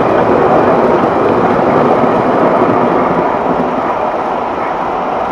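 MTH model subway train running on its track just after departing: a steady rumble of wheels and motor, with no breaks.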